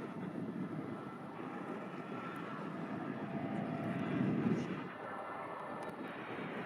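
Jet airliner's engines rumbling as it passes, growing louder to a peak about four seconds in and then easing, with a faint steady engine whine above the rumble.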